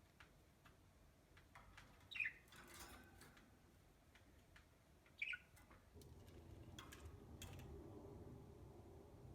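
Budgerigar giving two short, high chirps, about two and five seconds in, over faint scattered clicks. A low, steady hum comes up about six seconds in.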